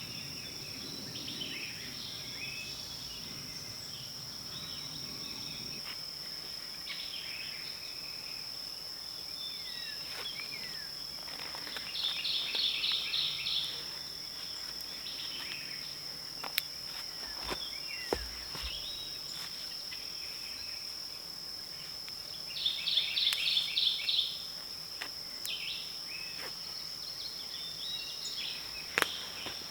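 Woodland ambience: an insect's steady high-pitched drone, with birds calling now and then and twice giving a short burst of rapidly repeated notes. A few faint clicks and knocks from handling gear.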